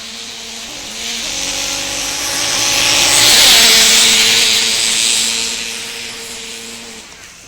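A motor vehicle's engine passing by: it grows louder to a peak about halfway through, then fades away, with a buzzing engine note under a broad rushing hiss.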